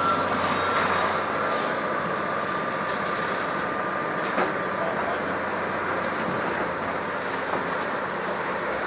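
Heavy demolition machinery running with a steady mechanical noise, and a single sharp knock about four and a half seconds in.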